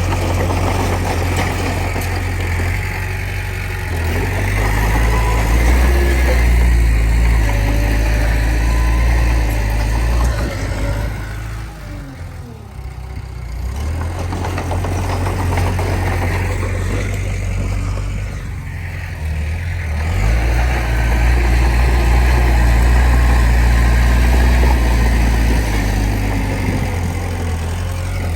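Komatsu D20P bulldozer's diesel engine working under load. It eases off twice, about twelve seconds in and again around eighteen seconds, then pulls hard again.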